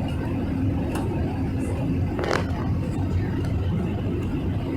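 Steady engine and airflow noise of an airliner cabin during landing: a low rumble with a constant hum. One short rustle or click about two seconds in.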